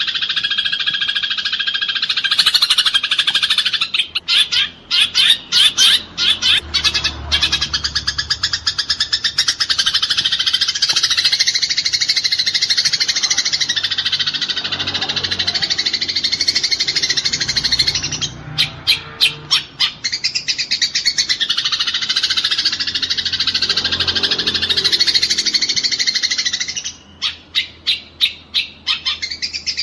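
A group of Eurasian tree sparrows chirping in a dense, continuous, agitated chatter: the calls of sparrows fighting. Three times the chatter breaks into runs of quick, sharp separate chirps.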